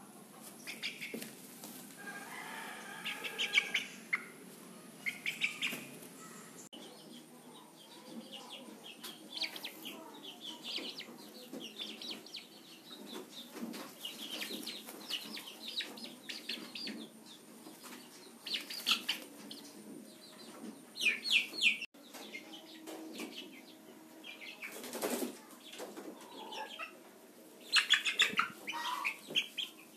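Aseel chicks peeping in short, high, repeated chirps, with a hen's lower clucks and now and then a brief rustle or wing flutter.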